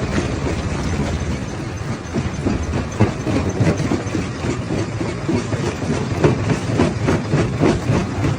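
Primary rock crusher running, with a steady heavy rumble under rapid, irregular knocking and clatter of stone being broken.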